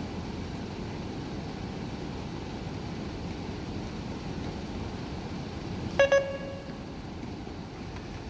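Steady background hum, then about six seconds in a bus-card top-up machine gives two quick, loud beeps, signalling that the card recharge has gone through.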